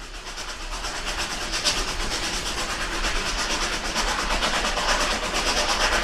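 Model railway diesel multiple unit running along the track, a steady rushing rattle with fast, even clicking that grows louder as it approaches.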